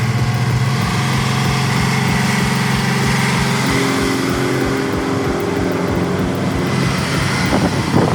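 Heavy-haul Kenworth prime mover's diesel engine running steadily with a low, even throb, its pitch shifting slightly about a second in and again near four seconds.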